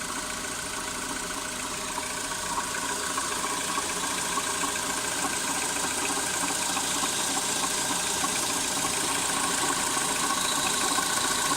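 Skoda Fabia 2 engine idling steadily with a knock running through it, which the owner suspects is the water pump, though he also wonders whether it is the timing chain, a roller or the belt.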